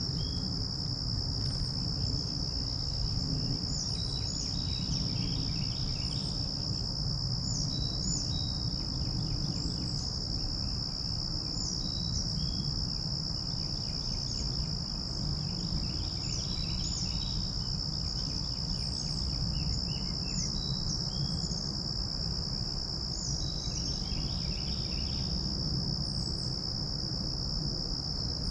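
Insects, crickets or the like, keep up a steady high-pitched drone. Short bird chirps and quick runs of repeated notes come and go over it, above a steady low rumble.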